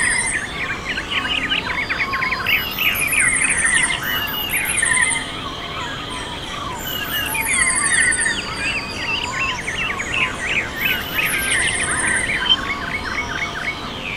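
Several birds singing and calling at once, a busy mix of quick overlapping chirps, with a thin, very high trill repeating every few seconds.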